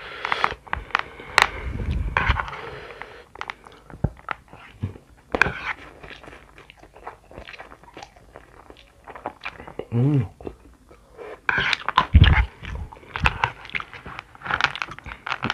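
Close-up eating: a mouthful of instant noodles sucked in and chewed, with crunching from the crisp pilus (flour-coated peanut snacks) mixed into them, giving many short sharp crunches and clicks.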